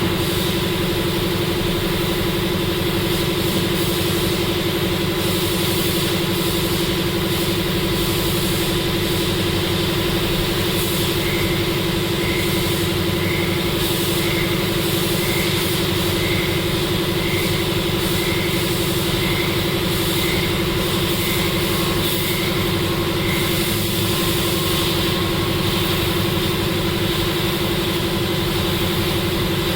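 A steady machine hum with a strong even drone and hiss, like a motor or engine running at a constant speed. Through the middle, faint short chirps repeat about one and a half times a second.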